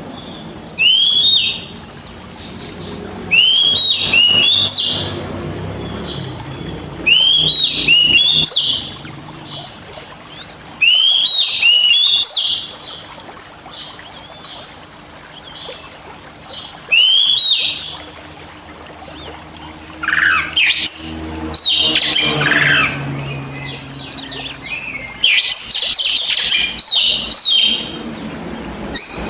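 Oriental magpie-robin (kacer) singing: a short phrase of rising whistled notes repeated every few seconds, then from about two-thirds through a denser, more varied run of song.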